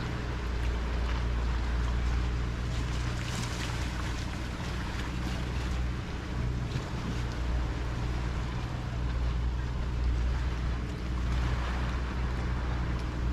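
A boat's motor running with a steady low drone, over the wash of waves and water.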